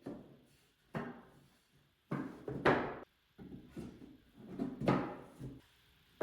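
Wooden drawer parts being handled and knocked together during assembly: a run of irregular knocks and scrapes, the loudest about two and a half seconds and five seconds in.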